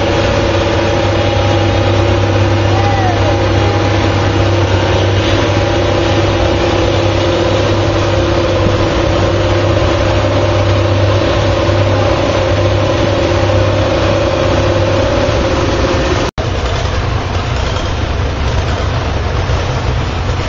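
Farm tractor diesel engine running hard and steady while pulling the sled in a stock tractor pull. About 16 seconds in it cuts off abruptly, and a rougher engine and crowd noise follows.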